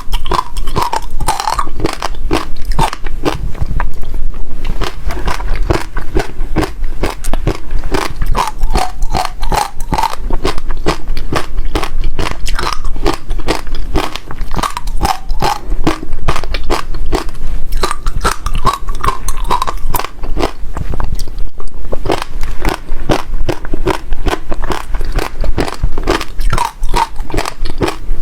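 Crunchy seeds being bitten and chewed close to the microphone, a dense, unbroken run of sharp cracks as they break between the teeth.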